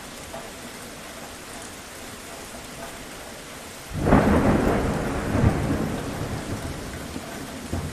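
Steady rain falling, then about halfway through a sudden clap of thunder that rolls on as a deep rumble and slowly fades under the rain.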